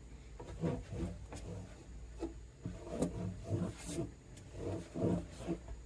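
A cloth rubbing over the freshly treated wooden guitar bridge in short strokes, making irregular squeaks about one or two a second.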